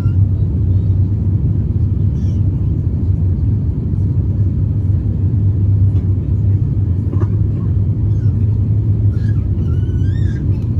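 Steady, loud low rumble of an Airbus A350-900's cabin noise: airflow over the fuselage and the Rolls-Royce Trent XWB engines, heard from inside the passenger cabin.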